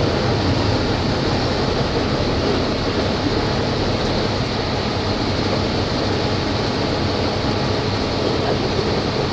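Volvo B270F bus engine running at a steady, even speed, with a low rumble and broad mechanical noise and no revving.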